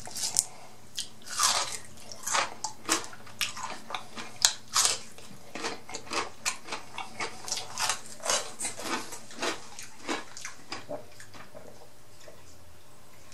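A person chewing a sauce-coated boneless chicken wing: a quick run of short smacking, clicking mouth sounds that thins out and stops about two seconds before the end.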